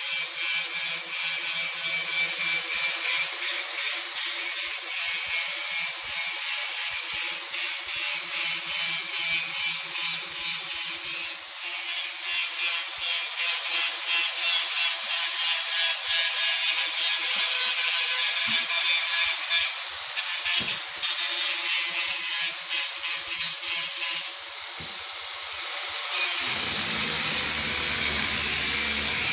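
Handheld angle grinder grinding steel: a steady, high-pitched grinding noise as the disc works the metal. The sound changes near the end, with a low hum coming in.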